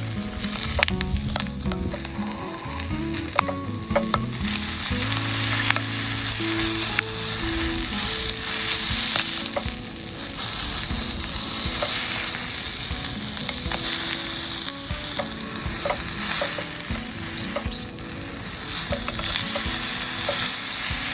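Bacon frying in a pan with a continuous sizzle and scattered light clicks and pops.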